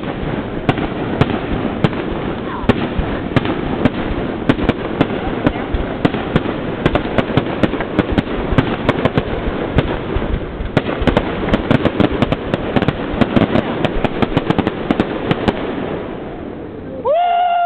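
A fireworks display with shells bursting in rapid, overlapping succession, a steady barrage of bangs and crackles that dies away after about sixteen seconds. Near the end people whoop and cheer.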